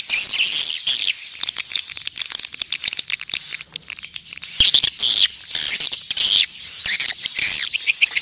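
Swiftlets twittering in a dense chorus of rapid, high-pitched chirps and trills: the swiftlet calling sound used to lure swiftlets to nest sites.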